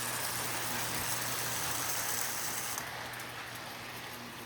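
Toy electric Christmas train running: a steady low hum under a hiss, and the hiss drops away sharply about three seconds in.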